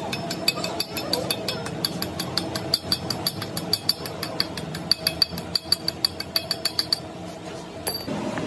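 Rapid, uneven metallic clicking from a ratcheting or geared mechanism, several clicks a second with a ringing edge. It stops about seven seconds in, and one sharp click follows near the end.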